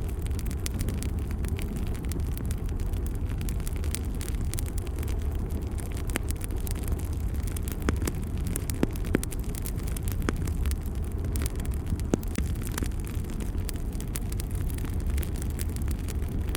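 Wood fire burning in a fireplace: a steady low roar with scattered crackles and pops, a few sharper snaps around the middle.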